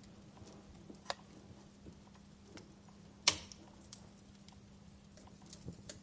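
Wood fire crackling: scattered small snaps with one loud sharp pop about three seconds in, over a faint steady low hum.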